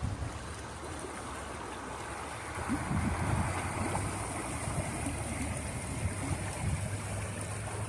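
Outdoor wind and rushing-water noise: a steady hiss with uneven low rumbling from wind on the microphone, stronger from about three seconds in.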